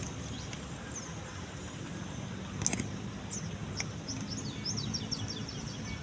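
Small birds chirping, with a quick run of short falling chirps in the second half, over a low steady rumble.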